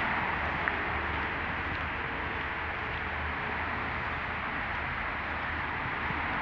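Steady background noise: an even hiss with a low hum beneath it, and one small click less than a second in.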